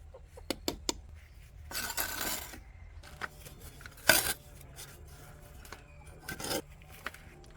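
Sharp clicks and clinks of small hard objects, a scraping rustle about two seconds in, and one loud clack a little after four seconds.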